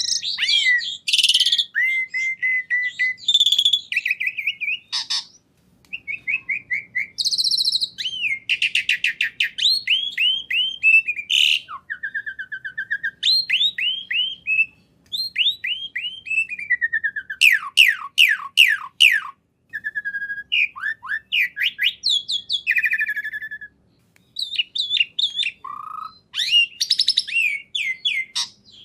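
A songbird singing a long, varied song of whistled notes, fast trills and quick downward-sweeping notes, with a couple of short pauses.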